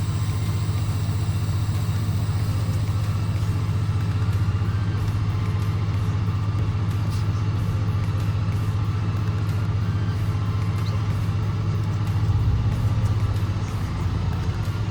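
Vehicle engine and road drone heard from inside the cab: a steady low hum that swells briefly about twelve seconds in.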